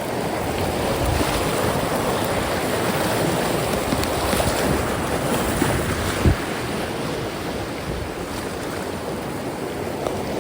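River rapids rushing and splashing close around the phone's microphone: a loud, steady rush of white water. A single thump about six seconds in.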